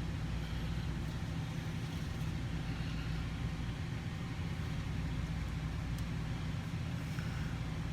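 A steady low hum that holds at one level, with a faint click about six seconds in.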